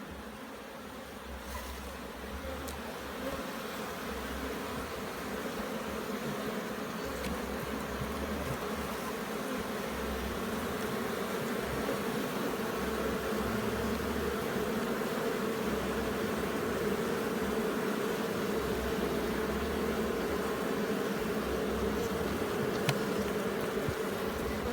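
Honey bees buzzing in a dense, steady drone around an opened hive, growing louder over the first several seconds and then holding.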